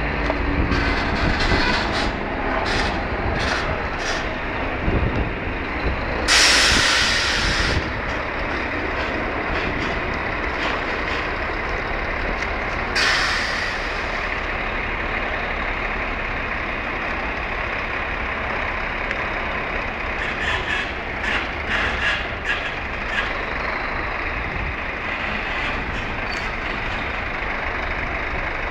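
Scania truck running, with two hisses of released compressed air: a longer one about six seconds in and a short one about thirteen seconds in. Scattered clicks are heard at the start and again past the twenty-second mark.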